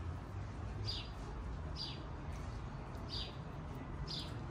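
A small bird calling: four short, high chirps, each dropping in pitch, about one a second, over a steady low rumble.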